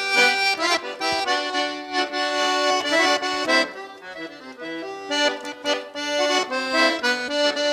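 Accordion playing an instrumental passage of a gaúcho song, a melody over several held notes at once.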